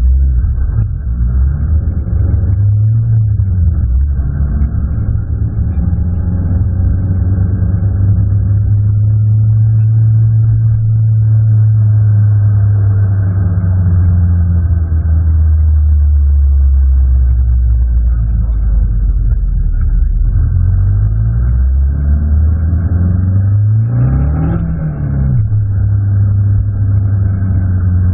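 Abarth 500 Assetto Corsa's turbocharged 1.4-litre four-cylinder engine under way, heard from inside the stripped, roll-caged cabin. Its revs hold steady for long stretches, dip and climb again, then rise quickly and fall back about 24 seconds in.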